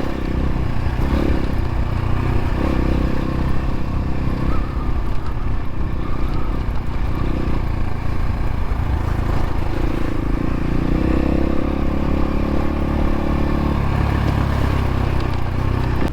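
X-Pro Templar X dirt bike engine running at low speed, its pitch rising and falling with the throttle.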